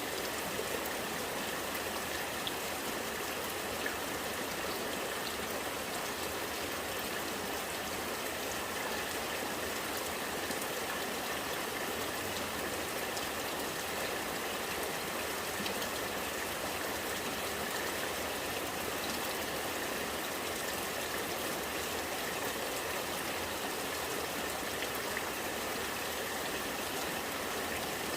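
Rainwater running and gurgling steadily, with rain falling.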